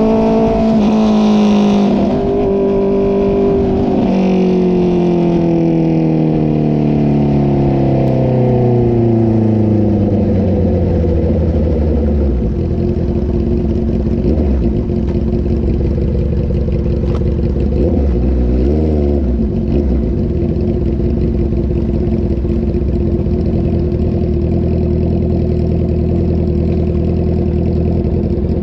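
Inline-four sport motorcycle exhaust. The revs fall steadily over the first ten seconds or so, with two short blips about two and four seconds in, then the engine settles into a steady low idle.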